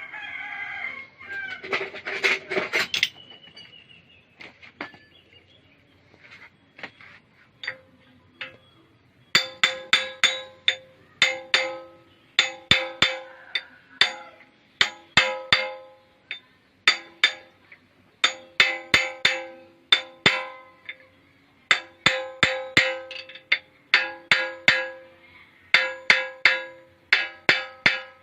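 Metal being hammered: sharp strikes in quick bursts of several a second, each ringing at the same pitch like struck steel, starting about a third of the way in.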